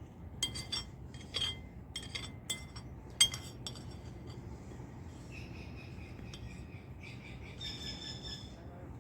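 Tanager giving a series of sharp, clicking chip calls, the loudest about three seconds in, followed from about five seconds in by softer drawn-out whistled notes.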